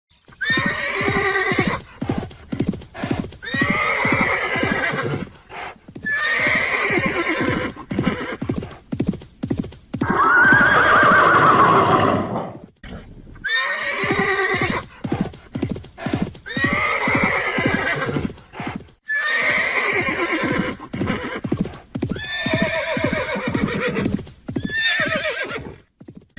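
Horses neighing again and again, about nine whinnies one to two seconds long, the one about ten seconds in the longest and loudest. Between the calls, hooves clop in quick even clicks.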